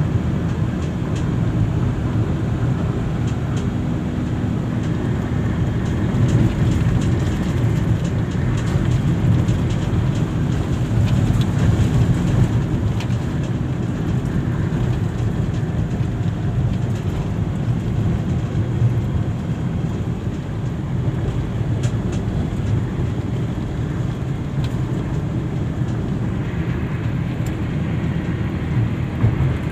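Steady low rumble of a moving road vehicle, engine and tyre noise, with no sudden events.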